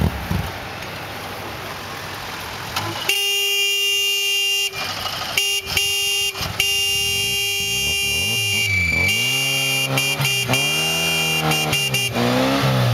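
Fiat Panda 4x4 engine working under load over rough ground, its revs rising and falling over and over in the second half. A steady high whine runs over it from about three seconds in.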